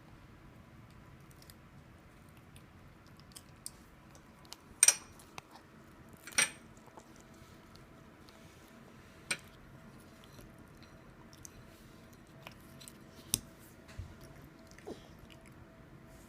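A baby chewing pizza: scattered wet mouth clicks and smacks, the loudest two about five and six and a half seconds in, over a faint steady room hum.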